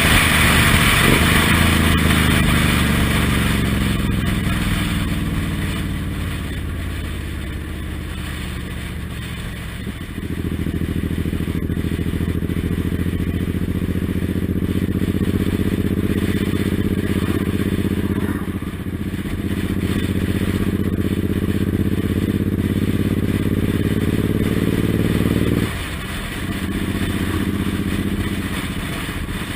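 Suzuki Intruder M1800R's V-twin engine running on the move. Its note falls for about ten seconds as the bike slows, then picks up suddenly with throttle and holds. It dips briefly about two-thirds of the way in and drops abruptly near the end, as at a gear change or throttle-off.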